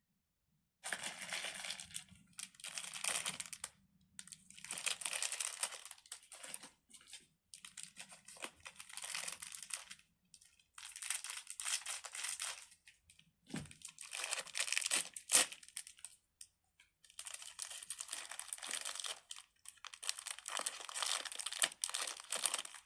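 Packaging crinkling and crumpling as it is handled, in about eight bursts of one to three seconds each with short pauses between.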